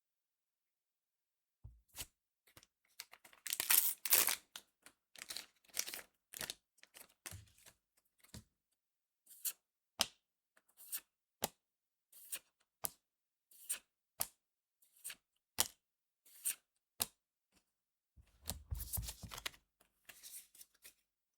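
A trading-card booster pack's foil wrapper is torn open. Then cards are flicked one at a time with sharp snaps about one and a half times a second, and near the end the wrapper rustles again.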